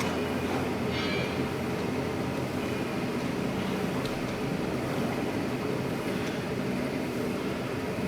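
Steady low rumbling background noise that keeps an even level throughout.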